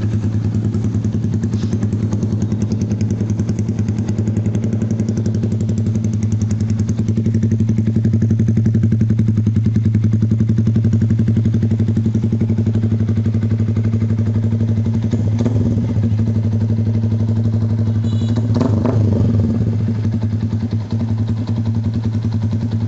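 Yamaha Sniper 150's single-cylinder four-stroke engine idling steadily through a newly fitted Proliner GP-type aftermarket exhaust, with two short clattery noises in the last third.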